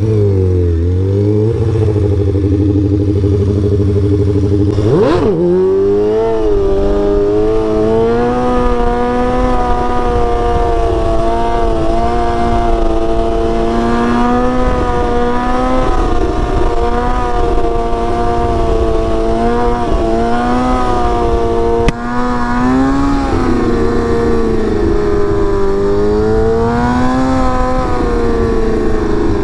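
Sport motorcycle engine running under way, with a quick rev up and back down about five seconds in, then a steady riding note that rises and eases gently with the throttle.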